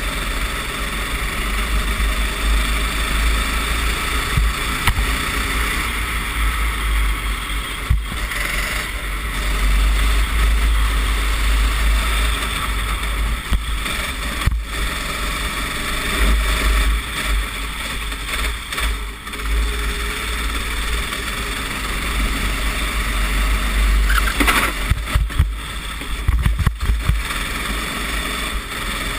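Racing kart engine running hard through a wet lap, its note rising and falling with the corners, under a heavy low rumble. A cluster of sharp knocks comes near the end.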